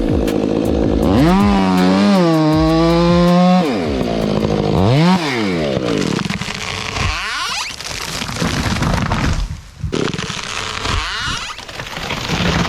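Chainsaw running and revving, its engine pitch rising and falling again and again, with a brief drop about ten seconds in.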